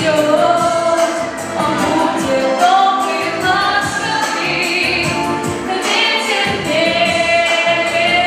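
A woman singing a ballad to an instrumental backing track, holding long notes with a slight waver.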